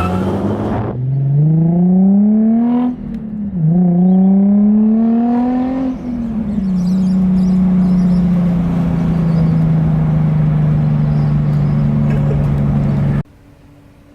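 Nissan 350Z's 3.5-litre V6 accelerating, its pitch climbing and then dropping at an upshift about 3 seconds in and again about 6 seconds in, then holding a steady cruise before the sound cuts off abruptly near the end.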